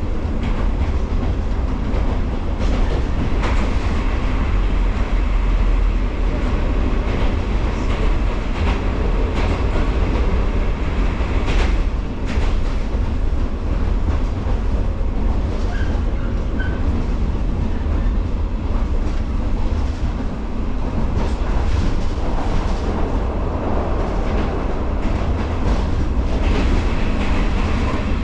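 JR 115 series electric multiple unit running along the line: a steady low rumble of wheels on rail, with scattered clicks from the track.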